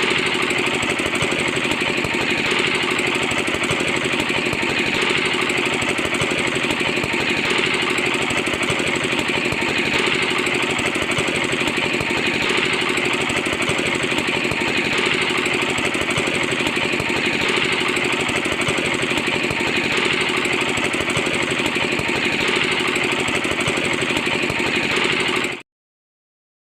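A small engine or motor running steadily with a fast, even clatter that swells slightly every few seconds, then cuts off suddenly near the end.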